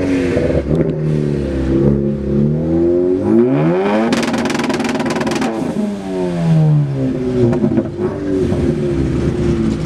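Car engines revving hard in a rev-off, their pitch climbing and falling again and again. About four seconds in, one engine is held high for over a second with a rapid rattling crackle.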